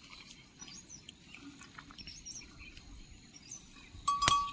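Small birds chirping, with repeated short, high calls. Near the end, a sudden loud sound with a ringing tone.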